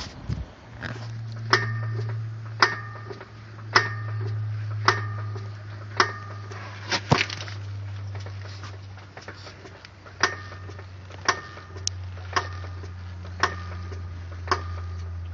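Sharp metallic clanks from a car's right front driveshaft as the wheel is rocked by hand, about one a second with a short ring after each and a pause partway through, over a steady low hum. The clank comes from play in the driveshaft, which a mechanic judged to be just large free play and no major problem.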